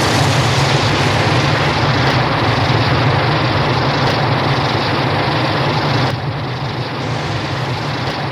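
Loud steady rushing noise with a strong low hum under it, an added comic-fight sound effect; it steps down in level about six seconds in.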